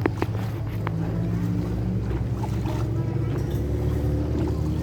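Motorboat engine running steadily with a low drone, with a few faint clicks about a second in.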